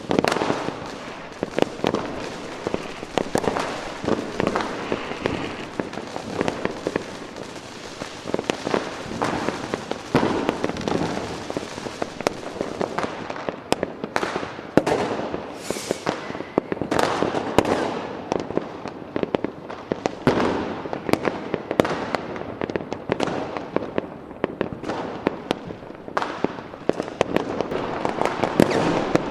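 Fireworks going off in a dense, continuous barrage: many sharp bangs and crackles overlapping, with no pause.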